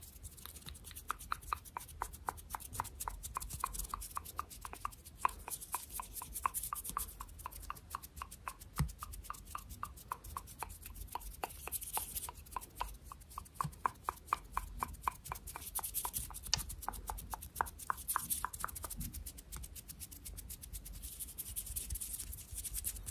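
ASMR hand sounds close to the microphone: quick, even clicking and rubbing, about three to four clicks a second, that stops about four seconds before the end, leaving soft rustling.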